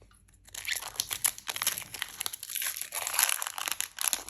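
A foil booster pack wrapper being torn open and crinkled by hand, a dense crackling that starts about half a second in.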